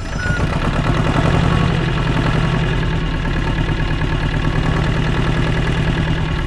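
Tractor engine idling steadily with a fast, even chug, starting and cutting off abruptly.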